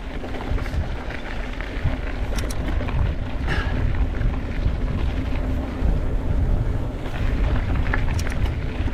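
Wind buffeting the microphone and the rolling rumble of a mountain bike riding on a dirt road, with scattered clicks and rattles.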